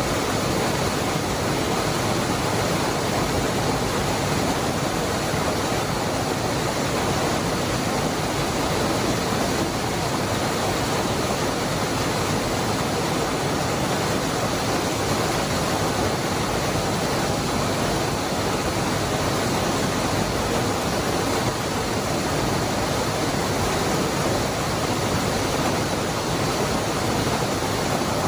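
Waterfall: a steady, unbroken rush of falling water, the Cascada del Hervidero.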